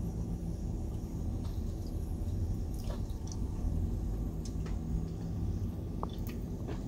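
A person chewing a piece of pan-fried chicken-of-the-woods mushroom, with a few soft wet mouth clicks over a steady low hum.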